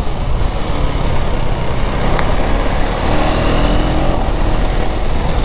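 KTM 390 Duke's single-cylinder engine running under way, with a steady rush of wind and road noise. There is a brief click about two seconds in.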